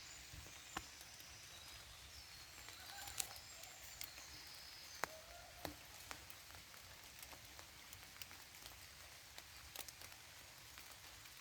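Light rain in a forest: a faint, steady hiss with scattered sharp drop ticks, and a few short, faint bird calls in the middle.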